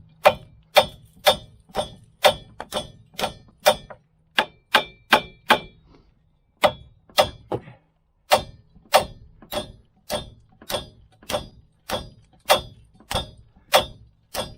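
Hammer striking metal over and over, about two ringing clangs a second, with a short break about six seconds in and again near eight seconds.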